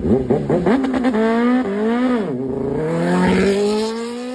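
Engine revved in a few quick bursts, then accelerating with its pitch rising steadily.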